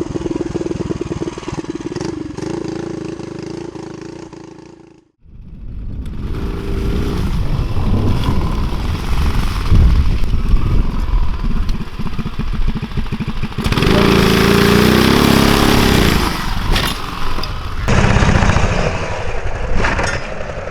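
Small single-cylinder engines of mini bikes and go-karts running on a dirt track. A steady engine note fades out about five seconds in. Then engines rev hard, their pitch wavering up and down over wind and dirt noise, loudest a little past the middle.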